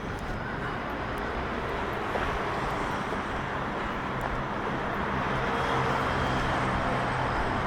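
Street traffic: a motor vehicle passing close, its engine hum and tyre noise growing a little louder about two seconds in and holding.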